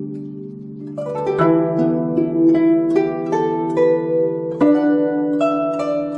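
Chinese zither (guzheng) music: a held chord fades, then about a second in a melody of plucked notes begins, each note struck sharply and left ringing.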